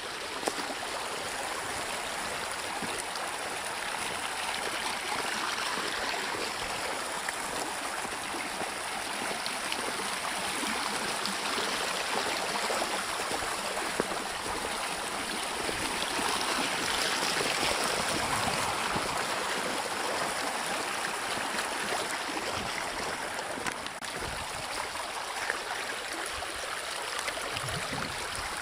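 Rainwater runoff rushing steadily down a road that has become a channel for storm water, with no gutter to carry it.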